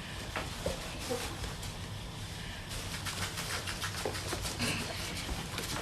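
Six-week-old golden retriever puppies: a few faint squeaks early on, then a rapid patter of light clicks from about halfway.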